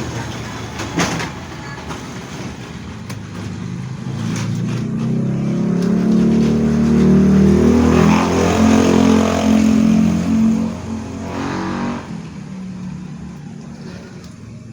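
A motor vehicle's engine running close by, growing louder to a peak in the middle and then fading away, as when a vehicle passes.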